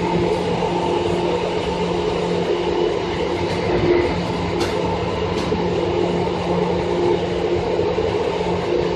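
Running sound inside a Seibu 2000 series electric train car (set 2453F), moving at steady speed: a continuous rumble of wheels on rail with a steady, unchanging hum from the drive. Two light clicks come about halfway through.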